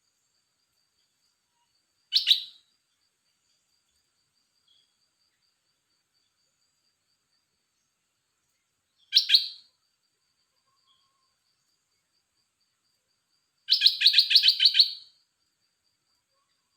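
A caged songbird calling: two short, sharp calls several seconds apart, then a longer rapid chattering phrase of about a second and a half near the end.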